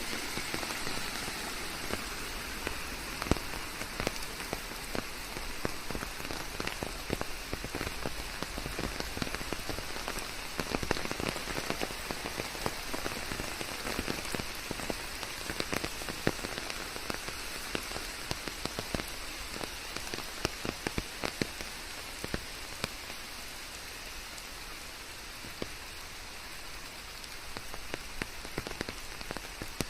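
Steady rain falling, with many close drops striking sharply over a continuous hiss.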